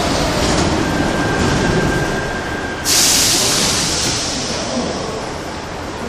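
Korail Class 351000 electric multiple unit at a station platform with a low rumble. A steady high tone sounds for about two seconds, then a sudden loud hiss begins about three seconds in and fades away over the next few seconds.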